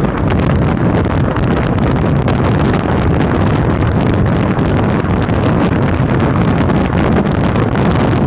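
Steady, loud wind rushing over the microphone of a camera on a moving motorcycle, with the bike's running noise blended underneath.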